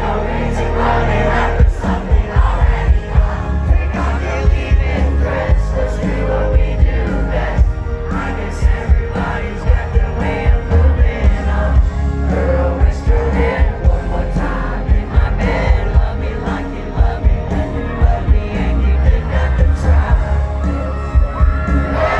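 Live country band playing loud amplified music with heavy bass and a steady driving drum beat, a singer's voice over it and a crowd cheering along.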